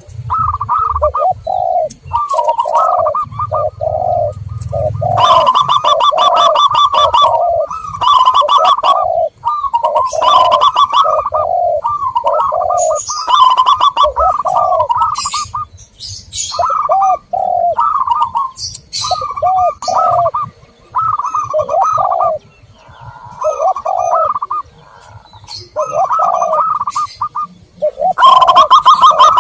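Zebra doves and spotted doves cooing over and over in repeated phrases, with higher trilled notes mixed with lower, rounder coos. Short high chirps from small birds come in between them.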